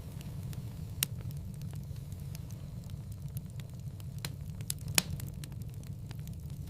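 Wood fire burning in a fireplace: a steady low rumble with scattered small crackles and two sharp pops, about a second in and about five seconds in.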